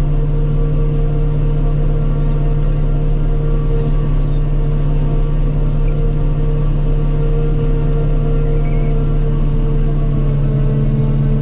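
Self-propelled forage harvester running steadily while chopping corn: a constant engine and machinery drone with a steady hum.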